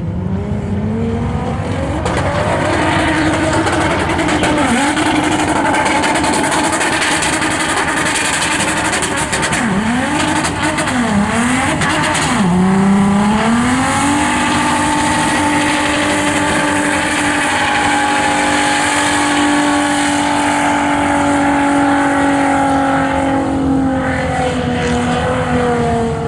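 Car engine at high revs during a drifting run: its pitch climbs, dips and recovers several times about halfway through, then climbs and is held high for about ten seconds before falling near the end, over loud tyre and wind hiss.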